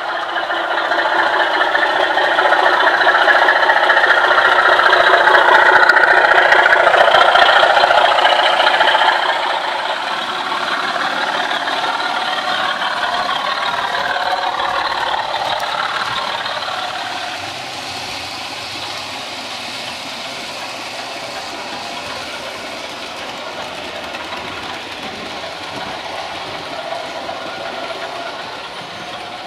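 Sound-fitted OO-gauge Class 24 model locomotive running, its DCC sound decoder playing the Sulzer diesel engine through a small speaker over the rattle of wheels on the track. Loudest for the first nine seconds, then quieter, dropping again about halfway through.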